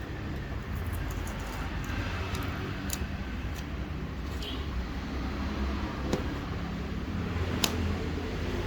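A steady low rumble with several sharp clicks scattered through it, the sharpest one near the end.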